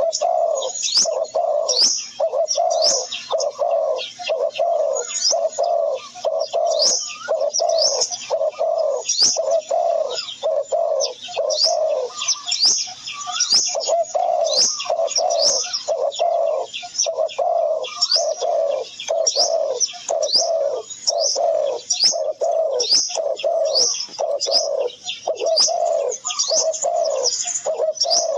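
Birds calling: low cooing notes repeating about twice a second, with a brief break around twelve seconds in, and quick high chirps over them.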